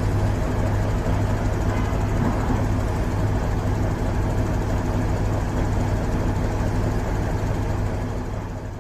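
A steady low engine rumble under a haze of background noise, fading out near the end.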